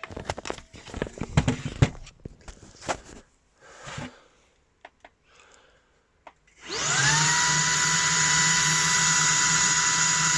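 Plastic clicks and knocks as a Shark IZ300 cordless stick vacuum is clipped back together, then about two-thirds in its motor switches on, spins up with a rising whine and runs steadily. With the loose filter pressed back in place, it sounds okay.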